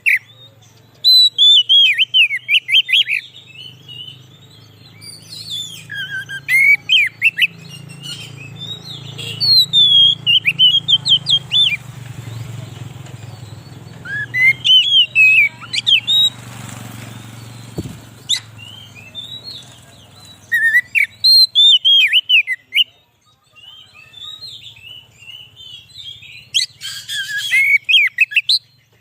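Oriental magpie-robin (kacer) singing: repeated bursts of quick, varied whistled phrases, each a second or two long, with short pauses between.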